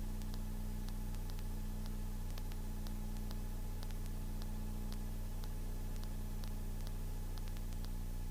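Steady drone of a Tecnam Sierra light sport airplane's engine in a climb, heard as a low hum with hiss through the cockpit intercom feed, with faint irregular clicks.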